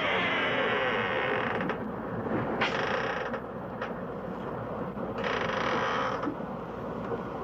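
Drawn-out creaking and grinding, with two brighter, hissier stretches about two and a half and five seconds in.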